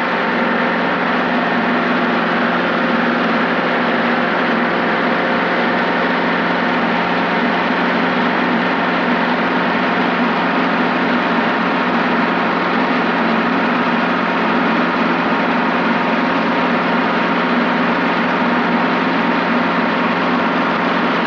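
Robinson R22 helicopter in steady forward flight, heard from the cockpit: a constant, even drone of engine and rotors with several steady tones and no change in pitch.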